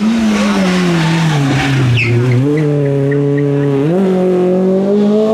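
Rally car engine on a stage, its note falling for about two seconds and then stepping up twice, with a brief high tyre squeal about two seconds in.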